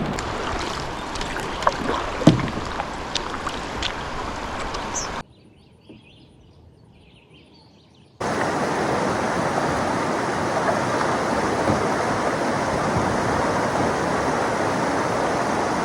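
River water rushing and splashing around a canoe running a class 1 rapid, with a few sharp knocks and splashes in the first seconds. It drops suddenly to a much quieter stretch for about three seconds midway, then comes back as a louder, steady rush.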